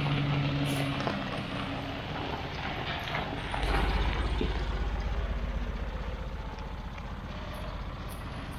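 Mercedes-Benz Unimog 404 truck's petrol inline-six running while the truck drives. The engine note changes about a second in. A deeper, louder rumble comes in at about three and a half seconds and then slowly fades.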